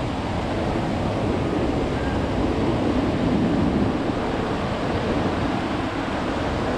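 Ocean surf breaking and washing ashore, a steady rushing that swells a little about three seconds in.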